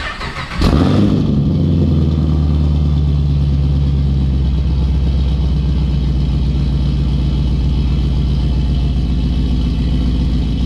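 Pontiac G8 GT's cammed 6.0-litre V8 through its aftermarket exhaust, heard from behind the tailpipes. It cranks briefly, catches under a second in with a short rev flare that drops away, then settles into a steady idle.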